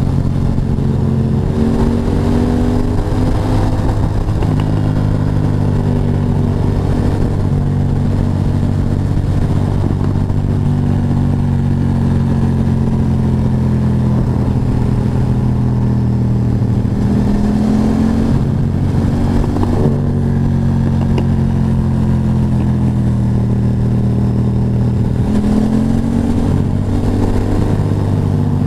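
Motorcycle engine running under way with a low rumble beneath. Its pitch rises and then drops back several times as the bike accelerates and shifts.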